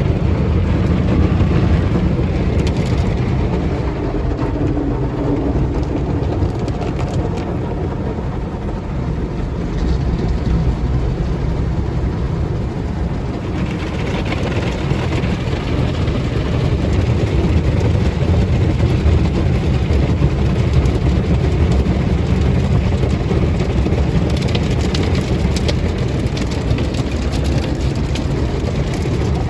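Car wash running: a steady, loud low rumble, with a higher hiss joining about halfway through.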